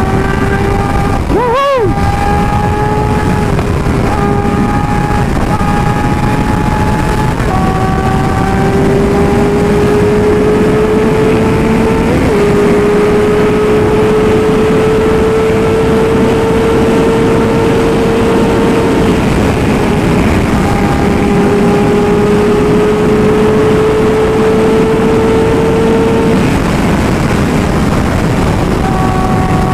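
Motorcycle engine running at steady high revs at expressway speed under a heavy rush of wind noise, its note creeping slowly upward, with a brief dip in the engine note about two seconds in.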